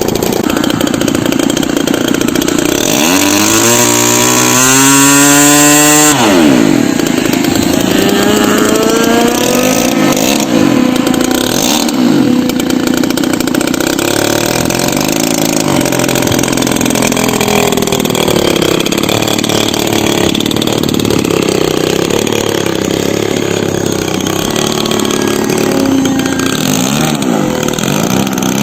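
DLE-20 single-cylinder two-stroke petrol engine with a Pitts muffler, powering an RC model airplane. It revs up steeply to full throttle about three seconds in, drops sharply in pitch near six seconds, then keeps running with repeated rises and falls in pitch.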